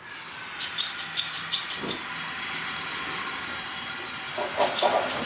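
Two homemade propane forge burners lit and running with a steady hiss of gas and flame, starting abruptly, with a few clicks and crackles in the first two seconds as they catch.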